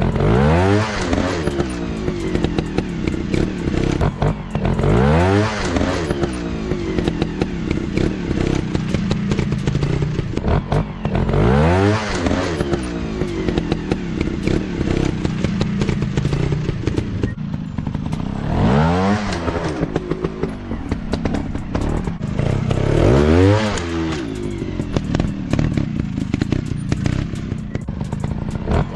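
Off-road dirt bike engine running and being revved hard over and over, the pitch climbing and dropping in quick blips every few seconds above a steady running note, with some clatter and thuds.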